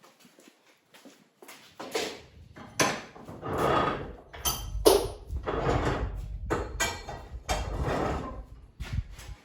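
An irregular run of knocks, clatters and short scrapes, with metal parts and tubing being handled at a workbench. It starts about a second and a half in.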